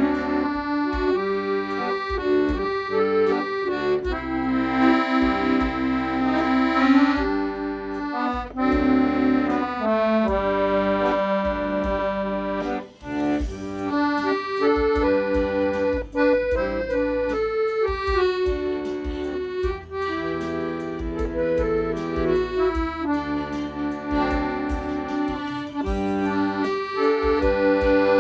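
Accordion playing a slow melody over held chords, with a steady bass beat underneath.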